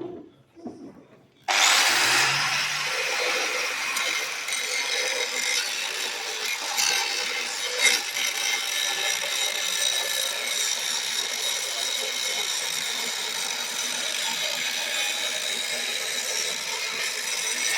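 A power tool starts abruptly about a second and a half in and runs steadily.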